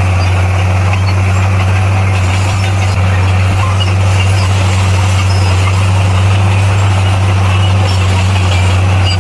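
Diesel engine of heavy earthmoving equipment running at a steady speed, a deep even hum over a wide engine noise.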